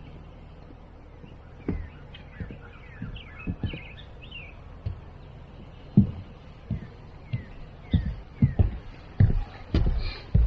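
Small birds chirping in short falling notes, with the thud of a hiker's footsteps on the trail settling into a steady walking rhythm about halfway through.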